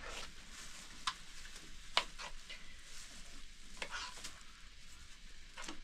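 Food sizzling in a frying pan as it is stirred, with a few sharp scrapes or clicks of the utensil against the pan.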